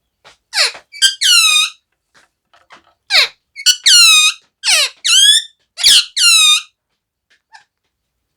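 Pet parrot calling loudly and shrilly. About four times over six seconds it gives a quick squeal that falls in pitch, then a longer high call.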